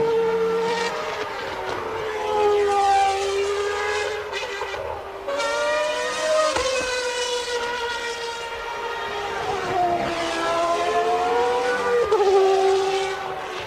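1992 Formula One engine running at high revs with a high-pitched scream. The pitch climbs and falls several times and drops sharply with gear changes.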